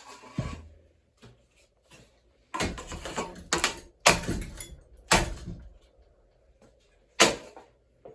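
A ceiling fan being smashed apart: a string of loud bangs and clattering hits with some ringing, bunched in the middle of the stretch, and one last hard bang near the end.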